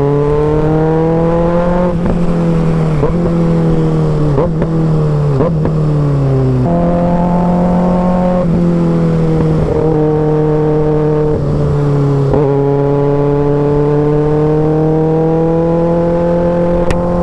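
Kawasaki Ninja inline-four sport bike with an aftermarket exhaust, riding at speed. The revs climb, drop at a gear change about two seconds in, fall off, jump up at a downshift near the middle, then climb slowly again toward the end.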